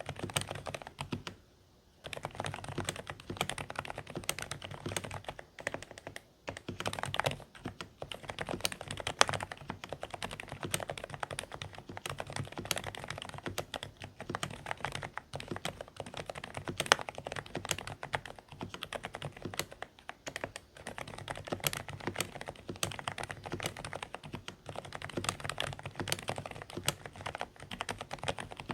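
Continuous fast typing on a Dareu A104 Pro mechanical keyboard with silent beige switches: quiet, slightly muffled keystrokes, with a brief pause about a second and a half in.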